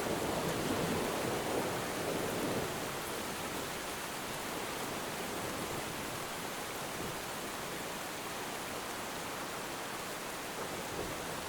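Steady rain falling, an even hiss, a little fuller and deeper for the first two seconds or so before settling.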